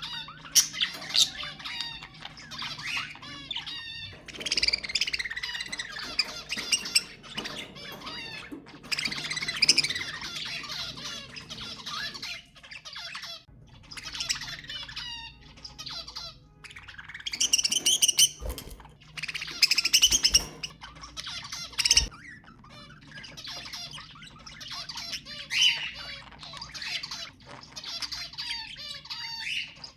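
Budgerigars chattering and warbling, with rapid chirps and squawks and a few louder, harsh calls about two-thirds of the way through.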